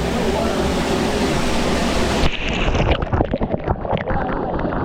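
Loud, steady rushing water. About two seconds in it cuts to closer, choppy splashing and sloshing water.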